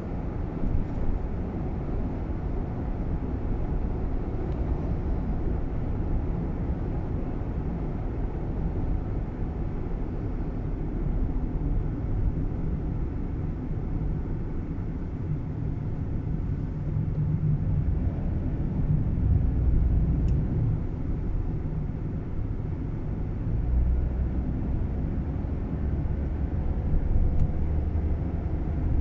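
Nissan Roox cabin while driving: steady low road and engine rumble that swells now and then, with a few faint ticks, the clicking rattle from the dashboard area.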